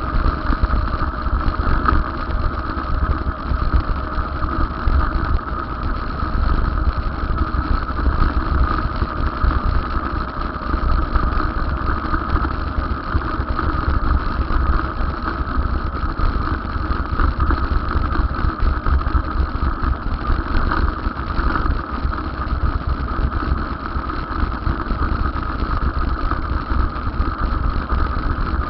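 Steady ride noise from an electric bicycle on the move: a heavy, fluttering low rumble with a constant mid-pitched hum above it, unchanging throughout.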